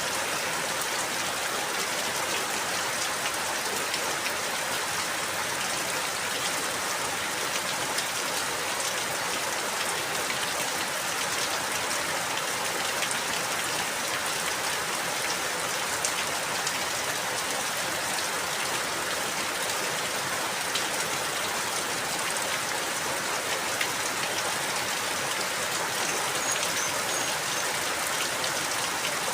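Steady rainfall, with the fine patter of many drops hitting a surface.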